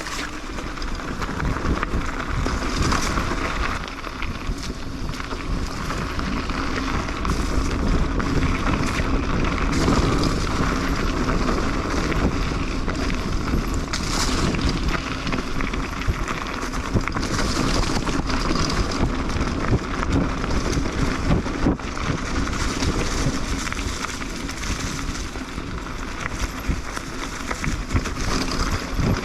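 Mountain bike rolling downhill over a rough trail: steady tyre rumble with many small knocks and rattles from the bike over bumps, and wind buffeting the microphone.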